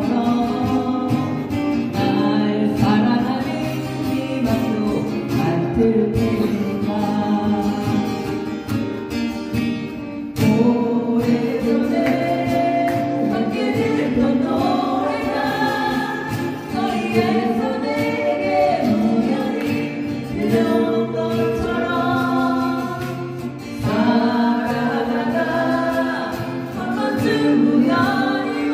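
Several voices singing a song together, with guitar accompaniment.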